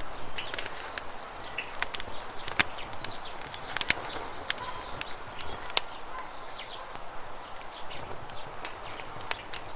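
Campfire crackling with irregular sharp pops of burning wood, over the steady rush of flowing river water. Birds chirp briefly now and then.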